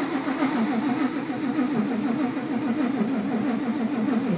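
Supercharged, cammed Ford Coyote 5.0 V8 running loud and rough, its note rising and falling unevenly, then cutting out suddenly after a few seconds. It keeps dying after about five seconds on each start, which the owner puts down to flooding or fuel supply.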